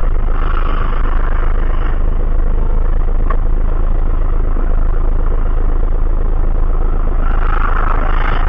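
Steady road and engine noise of a moving car as picked up by a dashcam, with a single sharp click about three seconds in.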